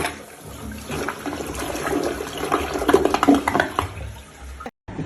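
Water rushing and gurgling, with many small splashes and clicks, cut off sharply near the end.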